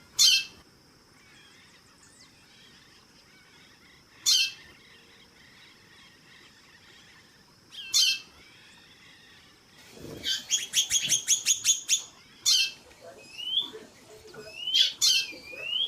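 Chorão (white-bellied seedeater) calling: three sharp single calls about four seconds apart, then a rapid run of about a dozen notes, then more calls with short rising notes near the end.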